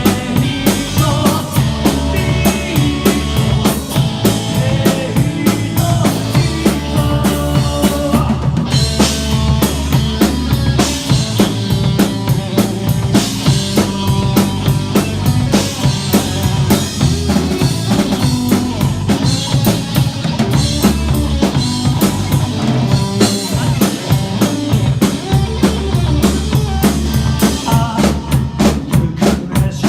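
Rock band playing an instrumental passage with no vocals: a driving drum kit with bass drum, snare and rimshots keeping a steady beat over sustained bass and other pitched instruments.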